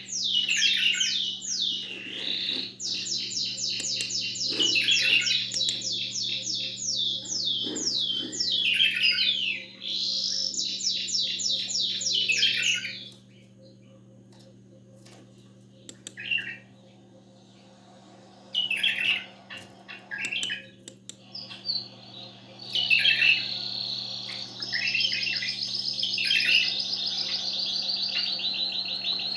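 Caged songbirds singing, canary and bulbul: long, fast rolling trills of high repeated notes, broken by a quieter gap with a few short phrases about halfway through, then dense trilling again. A faint steady low hum lies underneath.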